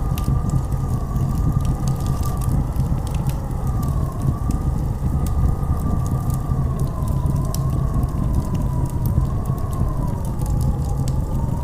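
Blizzard wind howling in a slowly wavering whistle over a deep, steady rumble, with scattered crackling clicks throughout.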